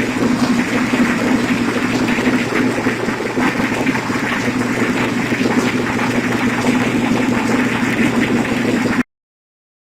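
An engine idling steadily, cutting off suddenly about nine seconds in.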